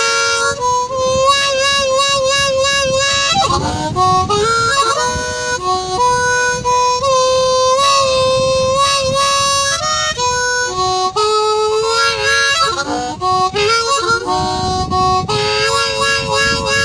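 Blues harmonica solo: long held notes with bends down and up in pitch, joined by quick runs of shorter notes.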